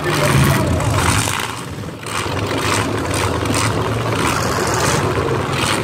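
Several demolition derby cars' engines running and revving together, loud and rising and falling, with a brief dip about two seconds in.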